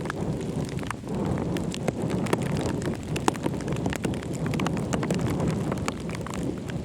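Raindrops pattering as many scattered ticks, with a low rumble of wind on the microphone that picks up about a second in.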